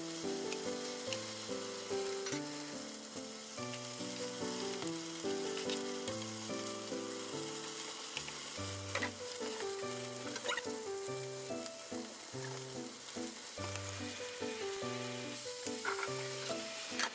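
Chicken mince patties sizzling in oil in a frying pan, with a few short clicks and scrapes of a spatula against the pan as they are turned over. Background music with plucked notes plays underneath.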